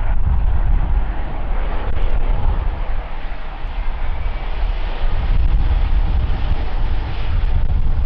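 Airbus A350-900 landing, its Rolls-Royce Trent XWB turbofans giving a steady, deep rumbling jet roar.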